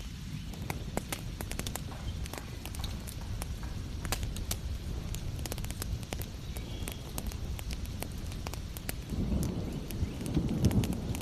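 Fireplace fire crackling, with frequent sharp pops and snaps over a steady low rumble of flames; the rumble swells louder near the end.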